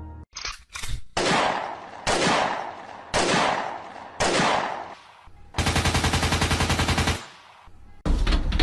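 Gunfire: four single shots about a second apart, each with a fading echo, then a rapid burst of automatic fire lasting about a second and a half.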